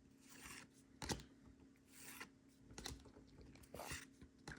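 Faint rustling and light clicks of Pokémon trading cards being handled and flipped through, with one sharper tick about a second in.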